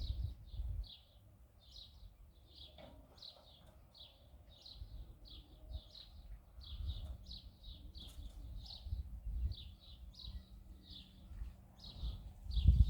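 A small bird chirping over and over, short high chirps about twice a second. Low wind rumble on the microphone comes and goes, with a loud gust near the end.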